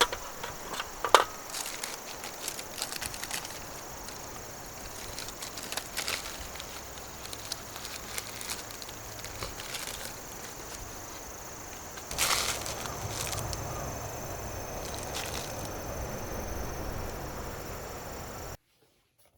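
Wood campfire crackling and snapping with scattered sharp pops, over a steady high-pitched insect drone; a louder rustling stretch starts about twelve seconds in, and the sound cuts off abruptly just before the end.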